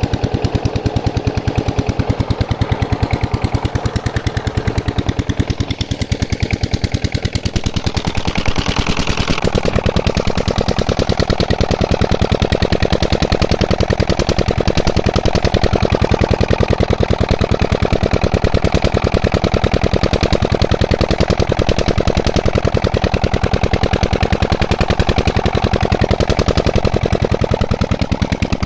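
Old diesel engine running steadily under load, driving a tubewell water pump, with rapid, even exhaust beats. The tone shifts slightly about nine seconds in.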